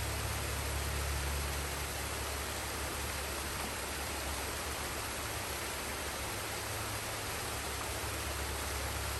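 Forest waterfall and stream rushing: a steady, even hiss of falling water with a deep rumble underneath that eases a little in the middle.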